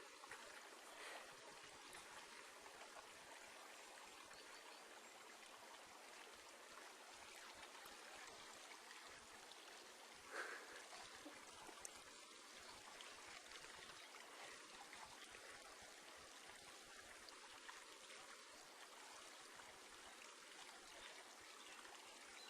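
Near silence: a faint steady hiss, with one brief soft sound about ten seconds in.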